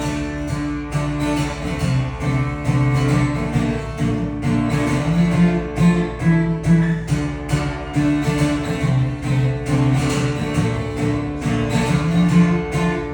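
Acoustic guitar strummed in a steady rhythm, about two strokes a second, playing an instrumental break in the song.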